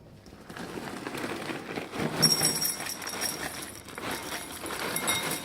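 Cereal box and its plastic inner bag being opened one-handed, with irregular crinkling and rustling that grows louder about two seconds in.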